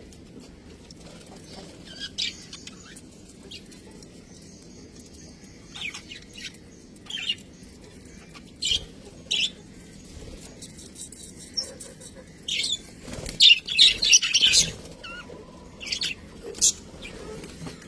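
Pet budgerigars chirping and chattering in short, scattered calls, with a busy burst of louder chirps and rustling about two-thirds of the way through.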